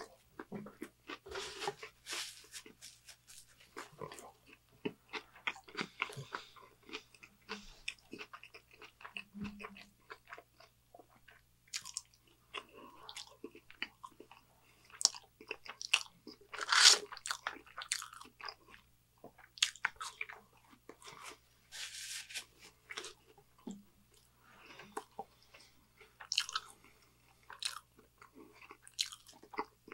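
Close-miked chewing of a mouthful of Burger King Whopper: a run of irregular mouth clicks and crunches, loudest about 17 seconds in.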